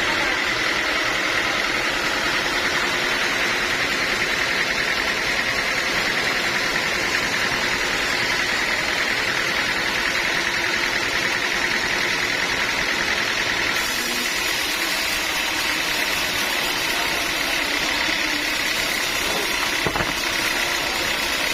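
Sawmill machinery running steadily, a constant, even mechanical noise with a steady high hum in it, plus a single sharp tick near the end.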